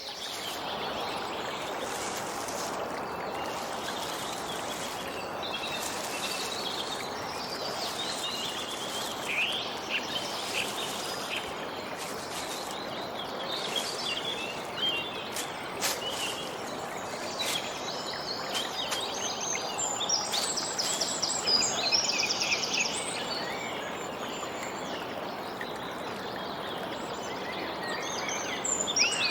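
Songbirds chirping and singing, with quick trilled phrases, over a steady even rushing background.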